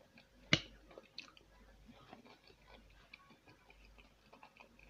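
Faint close-up chewing of soft food (mashed potato and a meat patty), with small wet mouth clicks throughout. One sharp click about half a second in is the loudest sound.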